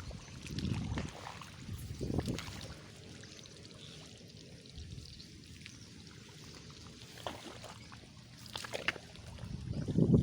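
Water splashing and sloshing in irregular bursts, with a quieter stretch midway and louder splashes near the end, like someone wading through a flooded rice paddy.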